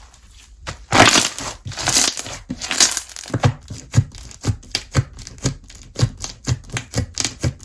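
Slime being handled: about two seconds of crackly, crinkling stretching, then a run of sharp poking clicks and pops, roughly two to three a second.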